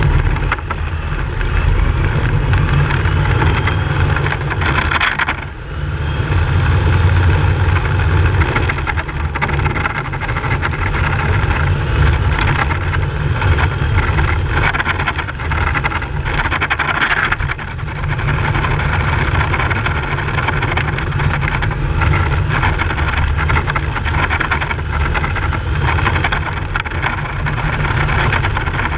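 Radio-controlled drift car running, heard as a continuous strong low rumble under a steady hiss, with a brief drop about five and a half seconds in.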